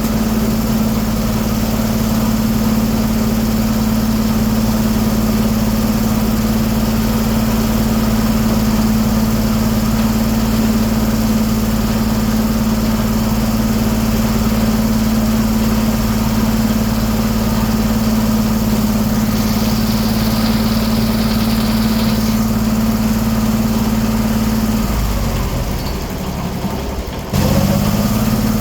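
A 1907 American circular sawmill running, a steady engine-driven hum with one strong held tone. Near the end the hum sags and drops away for about two seconds, then comes straight back up to full.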